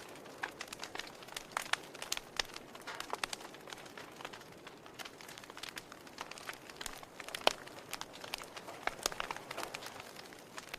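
Wood campfire crackling and popping: frequent irregular sharp snaps over a steady hiss of burning, one louder pop about seven and a half seconds in.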